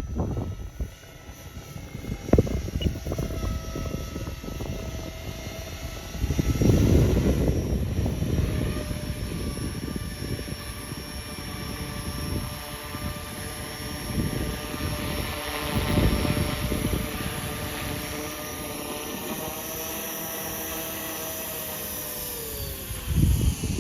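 Electric RC model helicopter (T-Rex 450 with EC 145 scale body) running with a steady motor and rotor whine, while wind gusts buffet the microphone several times. Near the end the whine falls in pitch as the rotor slows.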